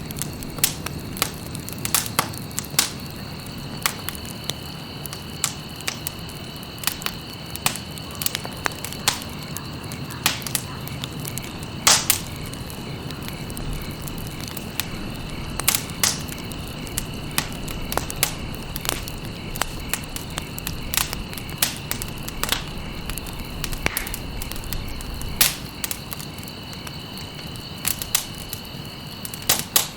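Campfire burning, with frequent irregular crackles and pops over a soft steady hiss of flames, one loud pop about twelve seconds in. A thin steady high-pitched tone sounds in the background.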